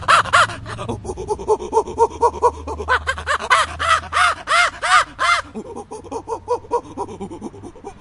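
An animal calling in a rapid series of short, arched, pitched cries, about four a second. The run is louder in the middle and fades toward the end.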